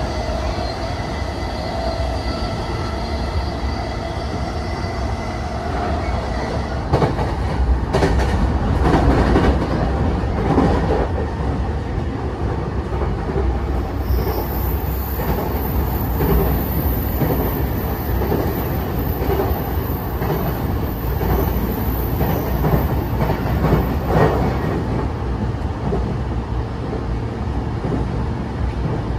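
Running noise of a JR East E233 series 5000 electric train at speed, heard inside the passenger car: a steady rumble of wheels on rail. A motor whine fades away in the first few seconds, a spell of clatter over rail joints comes about a quarter of the way in, and a thin high squeal runs through the middle.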